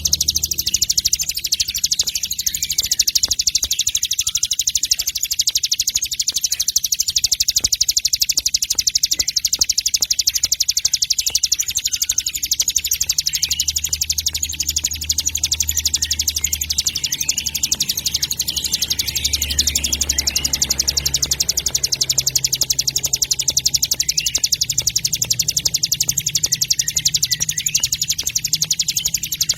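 Songbird 'masteran' recording: a dense, unbroken stream of rapid high-pitched chirps and trills from several small songbirds calling together, with a low steady hum underneath.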